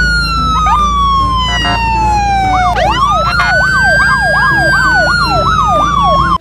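Toy police car's electronic siren: a slow wailing tone that falls away, then starts again about three seconds in with a fast up-and-down yelp, roughly three cycles a second, laid over it. It cuts off suddenly at the end.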